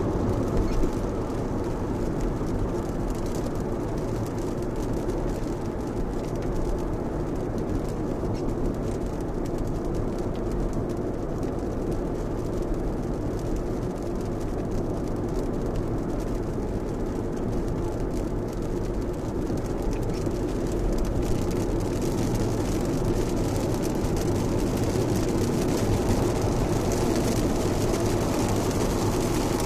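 Steady driving noise inside a Lexus RX at expressway speed in heavy rain: tyres running on a wet road and rain on the car. The hiss grows somewhat stronger about two-thirds of the way through.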